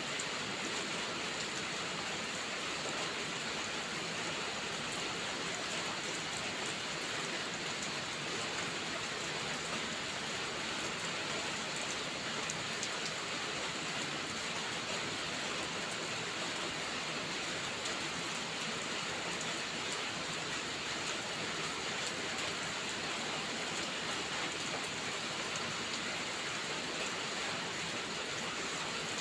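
Steady heavy rain falling without a break.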